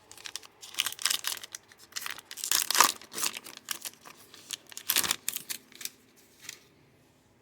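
A baseball card pack's wrapper being torn open and crinkled: a run of irregular crackling rustles that dies away about six seconds in.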